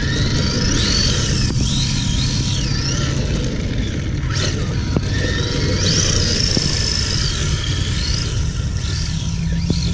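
Electric motor of a Redcat Thunder Drift RC drift car whining, its pitch rising and falling again and again as the throttle is worked, over a steady low rumble. A sharp click comes about five seconds in and another near the end.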